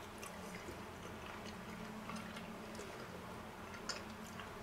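Faint chewing of a mouthful of soft, well-cooked vegetables, with scattered small clicks over a low steady hum.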